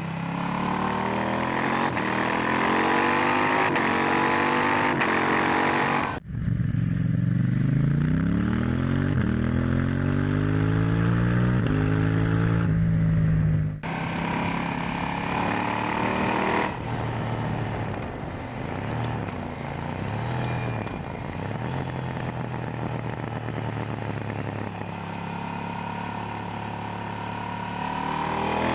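KTM 890 Duke R's parallel-twin engine through its stock silencer, pulling hard with revs climbing for several seconds. About six seconds in there is an abrupt break, followed by another long climb in revs. After a second abrupt break at about fourteen seconds, the engine runs at lower, steadier revs with small rises and dips, then starts to climb again near the end.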